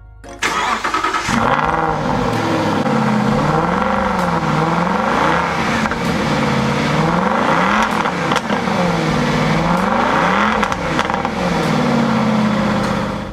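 Aston Martin V8 Vantage's V8 engine being revved again and again, the pitch rising and falling about every second and a half. Near the end it holds at a steady higher speed.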